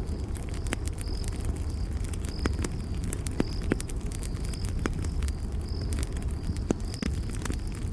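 Campfire crackling, with frequent sharp pops over a steady low rush of burning. A cricket chirps at an even pace, one short high chirp about every second.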